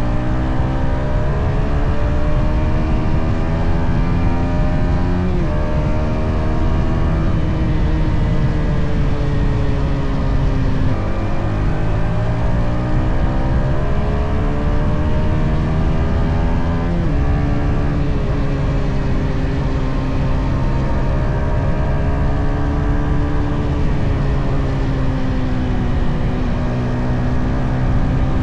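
Yamaha XSR 155's stock single-cylinder engine running under way, its pitch rising as the bike pulls and dropping suddenly at upshifts about 5, 11 and 17 seconds in, then holding fairly steady at cruise.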